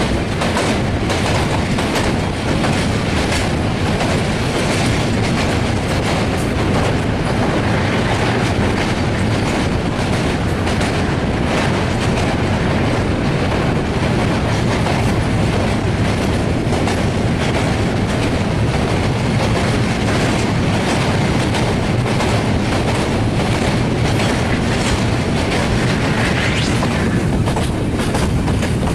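Passenger train running across a steel railway bridge: a loud, steady rumble with the wheels clacking over rail joints in quick, uneven clicks throughout.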